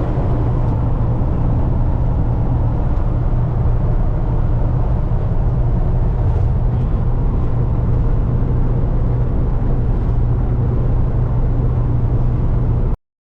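Steady drone of a car being driven, with engine and road noise. It cuts off suddenly near the end.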